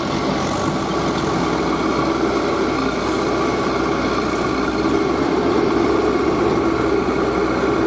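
Heavy diesel engine running steadily at a low, even speed, growing slightly louder about five seconds in.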